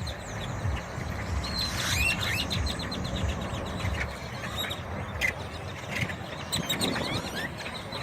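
A large flock of birds calling over one another with squeaky, clicking notes that sound like a computer glitch, and a rising whistle about two seconds in, over a steady low rumble of parking-lot traffic.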